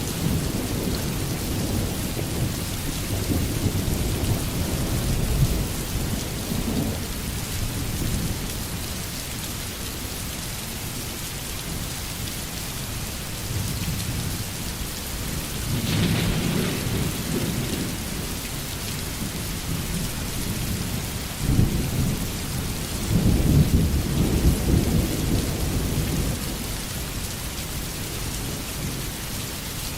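Steady rain hiss with low rolling thunder rumbling in swells: in the first few seconds, again about halfway, and loudest from about two-thirds of the way in.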